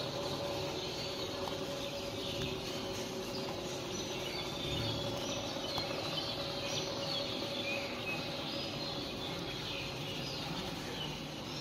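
Small birds chirping repeatedly over steady background noise and a faint steady hum.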